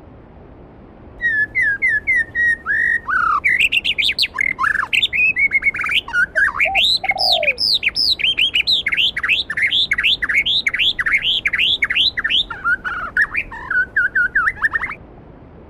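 A songbird singing one long, fast, varied song of whistled and chirped notes, some sweeping up and some sweeping down. It starts about a second in and stops about a second before the end, over the steady faint hiss of a flowing stream.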